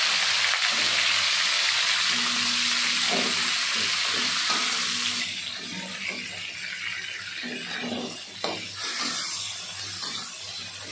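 Raw chicken pieces sizzling loudly as they hit hot oil in a metal wok. The hiss eases off about five seconds in, leaving a quieter sizzle while a metal spatula scrapes and clinks against the wok as the chicken is stirred.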